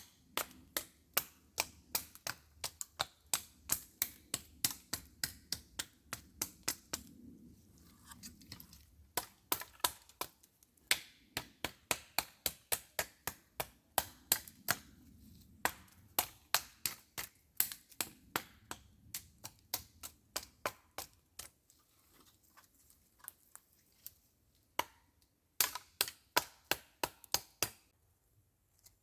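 Dry wood cracking sharply over and over as it is worked by hand: quick irregular cracks about two or three a second, with a couple of short pauses.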